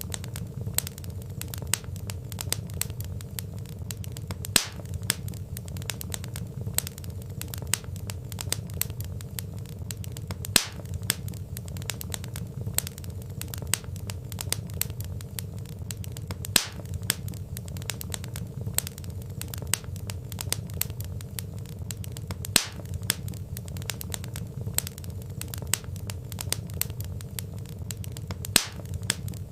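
Wood fire crackling in a fireplace: a steady low rumble of burning logs under many small snaps and pops. A louder pop stands out about every six seconds.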